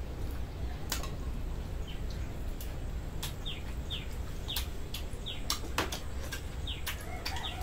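A small bird chirping over and over: short falling chirps, about one every two-thirds of a second, with scattered sharp clicks. A chicken starts calling near the end.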